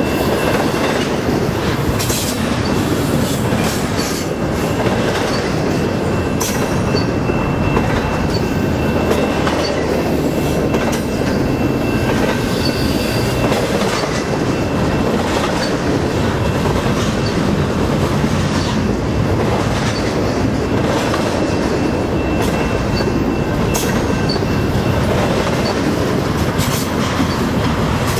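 Double-stack intermodal freight cars rolling past: a steady rumble and clatter of steel wheels on rail, with a faint high steady squeal through much of it and a few sharp clanks.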